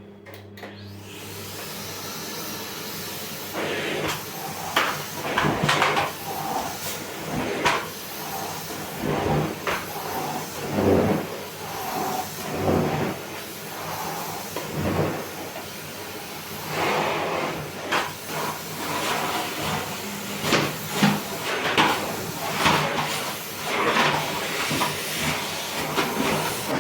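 Kitchen cleaning noises: a steady hiss that starts just after the opening, with irregular knocks and clatter of things being handled and set down throughout.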